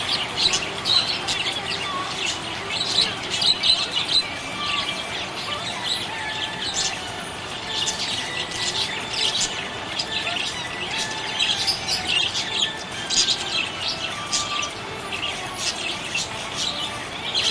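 Budgerigars chirping and chattering: a steady stream of short, high chirps with no pauses.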